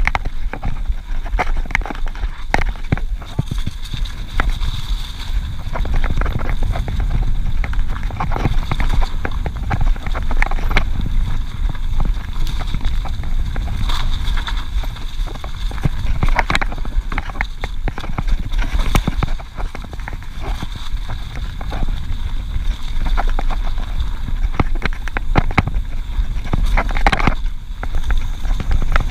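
Mountain bike riding down a rough dirt trail: a steady rumble of tyres on the ground with frequent rattles and knocks from the bike over bumps.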